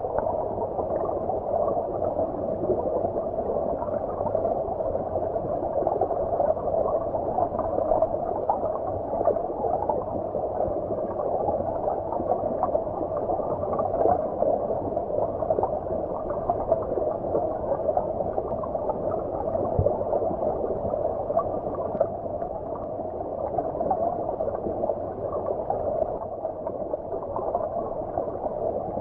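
Shallow stream water heard from underwater: a steady, muffled gurgling and bubbling with no high sounds.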